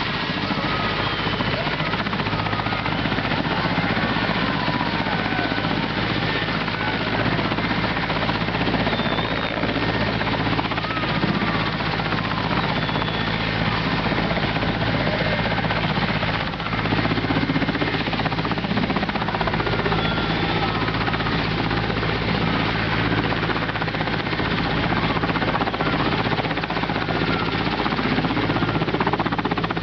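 Mi-17 helicopter running with its main rotor turning, a steady loud rotor and twin-turbine noise with a constant low hum.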